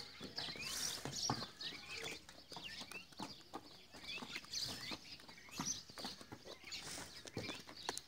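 Small birds chirping busily, with many short rising chirps several times a second, over scattered light clicks and knocks.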